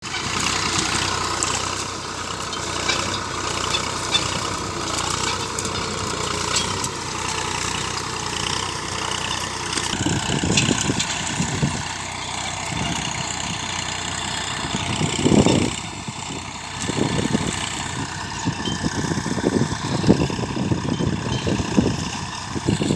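Tractor engine running steadily, with irregular low surges from about halfway through, one louder than the rest a little past the middle.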